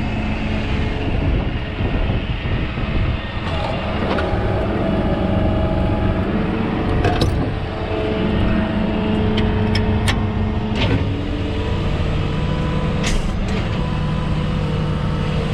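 Rollback tow truck's engine running steadily as the truck is backed up, its pitch shifting a little, with a few sharp clicks and knocks.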